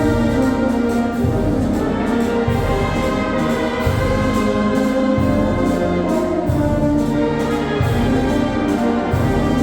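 A Sierra Mixe banda filarmónica, a brass and wind band, playing. The band holds full chords over a bass line that moves to a new note about every second.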